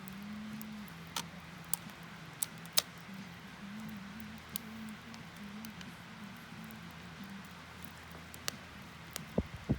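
Wood campfire crackling, with sharp irregular pops every second or so over a low, wavering hum.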